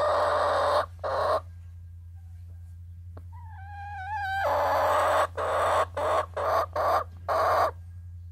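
Hens calling: a drawn-out wavering call a few seconds in, and harsh squawking clucks at the start and in a quick run of short calls through the second half. A steady low hum runs underneath.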